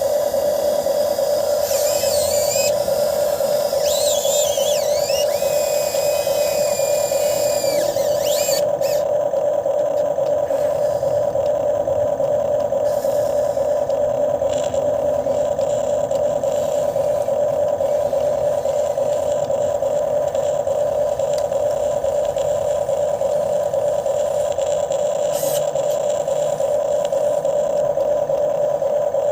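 RC hydraulic excavator's electric pump motor running with a steady whine. A few seconds in, higher wavering tones come and go for about six seconds.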